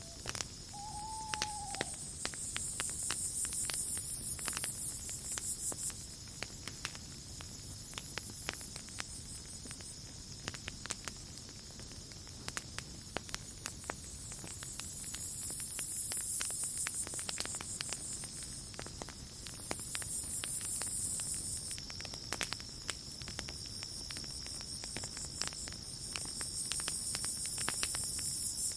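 Wood campfire crackling with frequent sharp pops, over night crickets: one steady high trill and higher buzzing choruses that swell and fade every few seconds.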